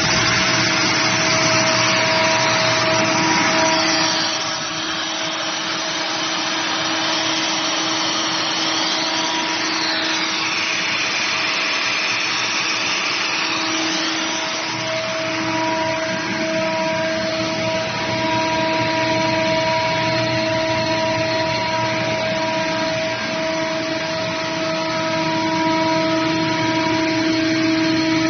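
A 75 kW (100 HP) industrial air compressor running on test: a steady mechanical hum and whine over a broad hiss, with several steady tones. The level dips slightly about four seconds in, then holds steady.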